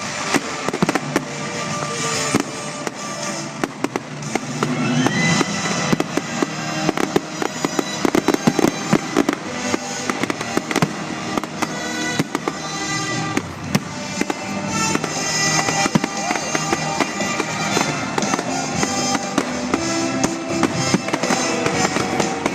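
A fireworks display: many bangs and crackles going off in quick succession, with music playing alongside.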